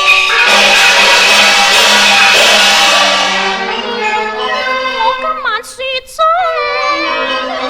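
Cantonese opera song: the instrumental ensemble plays with a bright noisy wash over it, then a woman's solo voice comes in about four seconds in, singing with sliding, ornamented notes.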